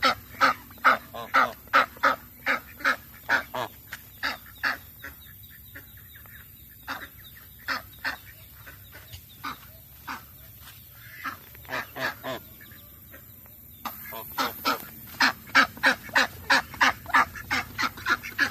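Domestic waterfowl calling in a quick series of short calls, about three a second, thinning out for a stretch in the middle and coming thick and loud again near the end.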